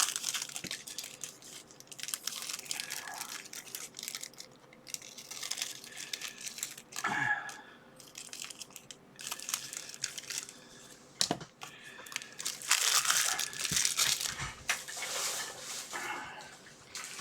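Scissors cutting through a mail package, with the packaging crinkling and rustling in irregular bursts as it is handled, and a few sharp clicks.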